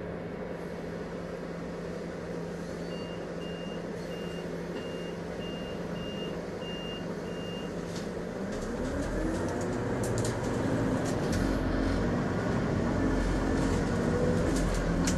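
Scania Citywide CNG city bus heard from on board: its gas engine idles while a run of high warning beeps sounds about two a second for some five seconds, then the engine note rises and grows louder as the bus pulls away.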